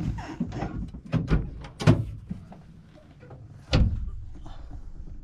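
A series of knocks and clunks: a sharp one right at the start, a few more over the next two seconds, and another loud one a little before four seconds in.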